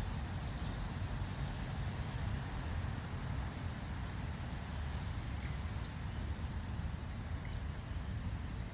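Steady outdoor background noise: a low rumble under an even hiss, with a few faint high ticks.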